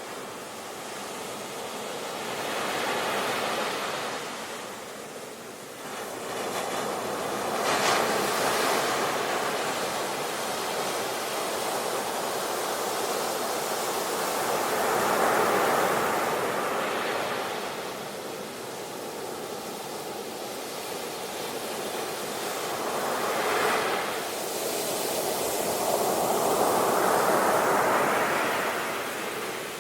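Ocean waves breaking on a shore, a steady wash of surf that swells and eases in slow surges every several seconds, with sharper crashes about 8 and 24 seconds in.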